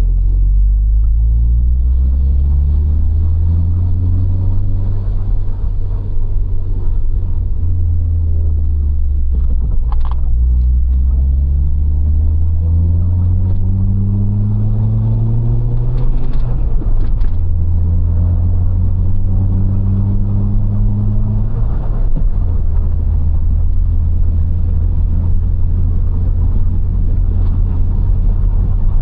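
Citroën XM 2.0 Turbo's four-cylinder petrol engine accelerating through the gears of its manual gearbox: the pitch climbs in each gear and drops at each of four upshifts, then holds fairly steady at a cruising speed.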